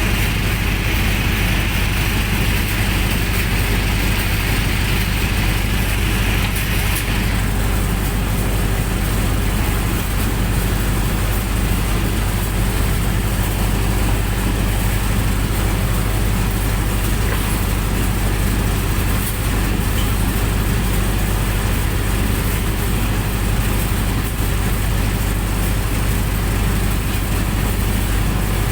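Generator set's engine running steadily with a low, even drone. A higher hiss over it stops about seven seconds in.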